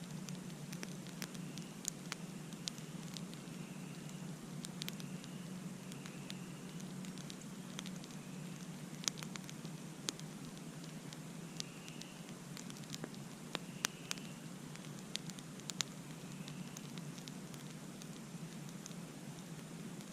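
Campfire crackling, with sharp irregular pops and snaps over a steady low rush. Faint short chirps recur every second or two.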